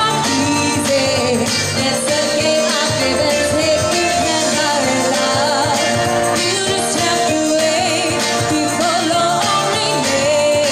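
Live pop music from a wedding band, with a woman singing the lead over a steady full-band backing.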